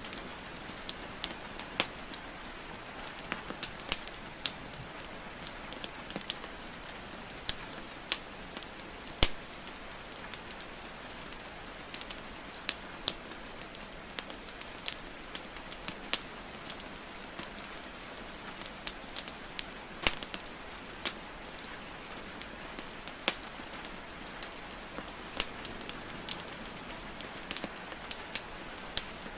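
Wood fire crackling with frequent, irregular sharp pops over a steady hiss of falling rain.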